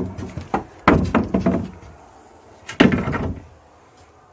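Stored items being shifted and knocked about while rummaging through a shed: a few knocks at the start, a run of clattering knocks about a second in, and the loudest knock and rattle near three seconds.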